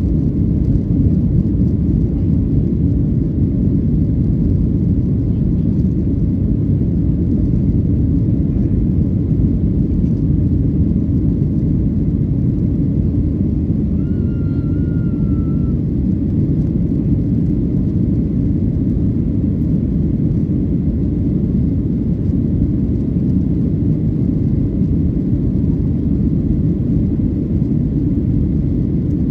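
Boeing 737-800 cabin noise: the steady low rumble of its CFM56-7B turbofan engines and airflow, heard from inside the passenger cabin. A faint short tone sounds briefly about halfway through.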